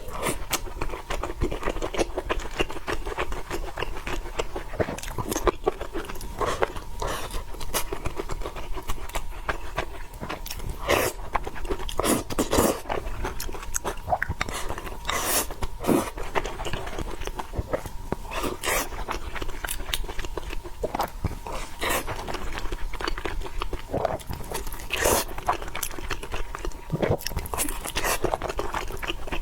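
Close-miked mukbang eating: chewing and biting with many short, sharp mouth clicks and smacks throughout.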